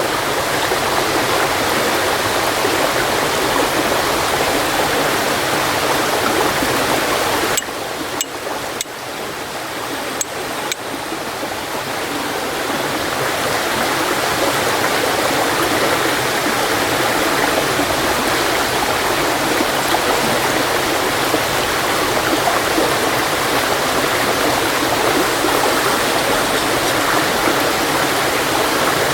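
Steady rushing noise like flowing water, with a few sharp clicks from about eight to eleven seconds in: a carbon-steel hiuchi-gama fire striker being struck against flint to throw sparks onto char cloth.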